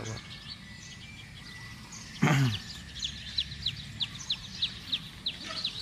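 A bird repeating a short high chirp, about three times a second, starting about three seconds in. Just before it comes one brief loud cry that falls steeply in pitch.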